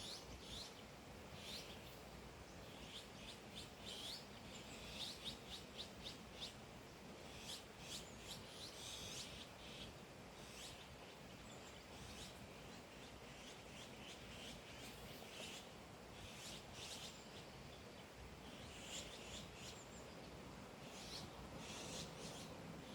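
Faint birdsong: small birds chirping in short, quick notes scattered throughout, over a steady background hiss.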